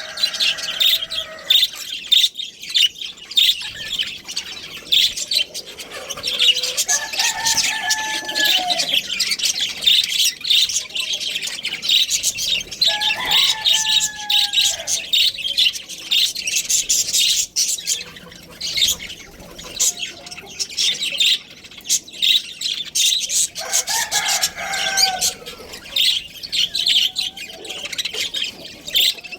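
A flock of budgerigars chirping and chattering continuously in a dense, high twitter. A few longer, lower calls with falling pitch stand out about a quarter, half and four-fifths of the way through.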